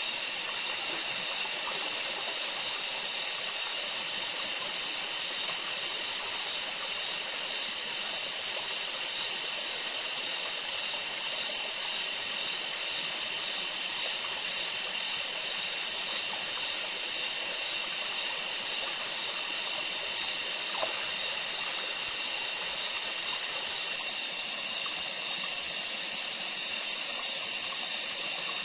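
Steady high-pitched hiss of outdoor ambience, with a few thin sustained tones running through it, growing slightly louder near the end.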